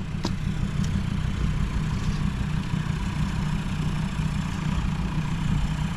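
Vehicle engine running steadily at low revs, a constant low drone with no rise or fall in pitch.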